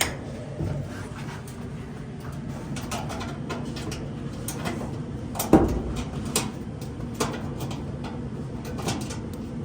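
Scattered clicks and knocks of dryer parts being handled while the drive belt and drum are fitted back together, with one louder knock about halfway, over a steady low hum.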